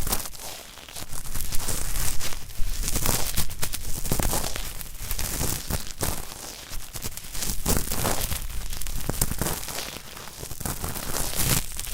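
Cotton swab scrubbed hard in both ears, a dense crackling, scratching ASMR ear-cleaning sound meant as stiff, hard earwax being worked loose. It comes in irregular strokes, easing off briefly about a second in and again near the end.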